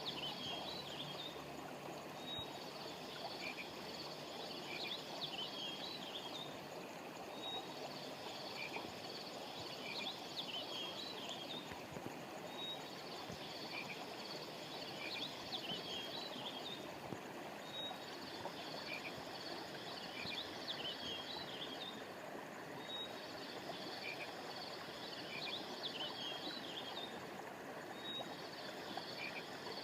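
Stream water flowing steadily, with clusters of high, short chirping calls that repeat in the same pattern about every five seconds, as in a looped nature track.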